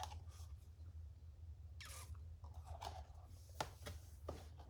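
Faint handling sounds of a cardboard gift box: a soft scrape about two seconds in and a sharp light click later, with a few fainter taps, over a low steady hum.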